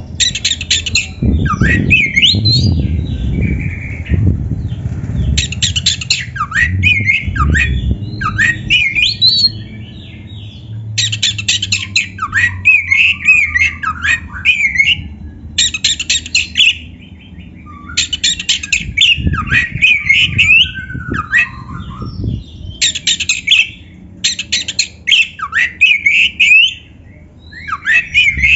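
Oriental magpie-robin (kacer) singing loudly and continuously. Whistled phrases sweep up and down and alternate with bursts of rapid harsh rasping notes. A low rumble sits under the song for about the first ten seconds.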